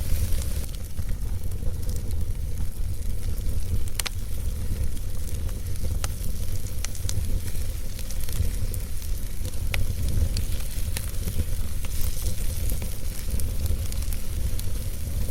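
Wood fire burning in a fireplace: a steady low rumble and hiss, with sharp crackles and pops of the burning logs scattered through it.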